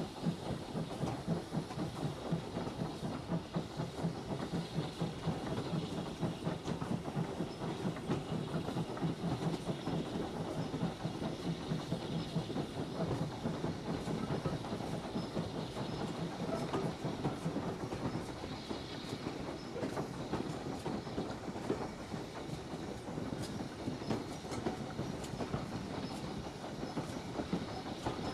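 Train running along the track: steady rolling rumble with wheels clicking over the rail joints.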